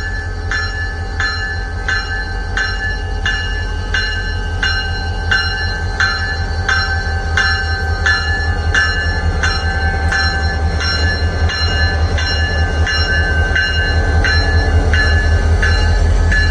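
EMD SD40 diesel locomotive rumbling past at low speed, growing louder near the end as it comes alongside. Over it runs a rhythmic metallic ringing clank about twice a second, from a train whose wagons are damaged and very noisy.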